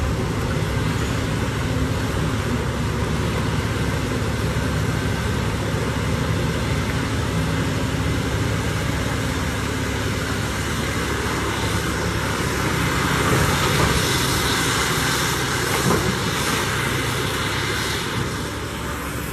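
Diesel engines of a CAT 6015B hydraulic shovel and CAT 777G dump trucks running steadily under work, with a louder, noisier swell about two-thirds of the way through and a single knock shortly after.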